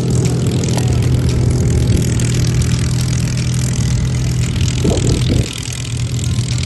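An engine running steadily: a loud low drone holding one pitch, with a brief wavering higher sound about five seconds in, after which the drone is a little quieter.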